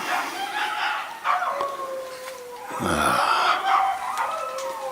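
Dogs howling in the background, long drawn-out wavering tones that overlap and slowly slide in pitch.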